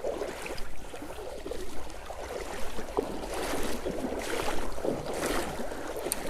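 Creek water sloshing and splashing in uneven surges about once a second, as from someone wading upstream through a small creek, over the creek's steady flow.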